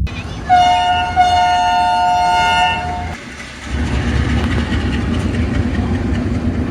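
A locomotive's two-tone air horn sounds twice, a short blast and then a longer one of about two seconds, followed by a steady low diesel engine hum.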